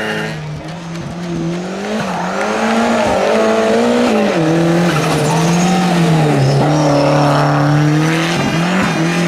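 Race car engine revving hard and dropping in pitch several times as it shifts or lifts, with tyres squealing, growing louder over the first few seconds as the car approaches.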